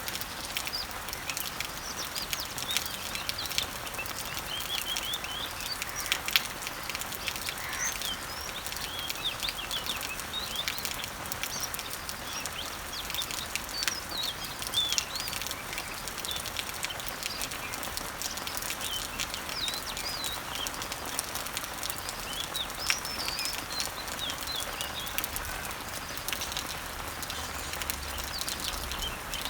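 Summer rain falling on garden leaves and trees, a steady hiss dotted with small drop ticks, while several birds chirp and sing throughout.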